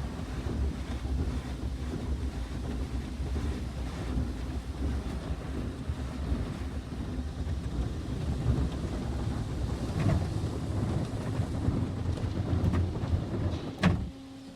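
Automatic car wash running, heard from inside the car: a steady low rumble of water spray and machinery on the car body with a faint steady hum, and a couple of short knocks, one about ten seconds in and another near the end.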